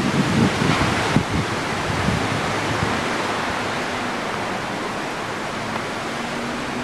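Wind blowing across the microphone as a steady hiss, with low rumbling buffets in the first second or so.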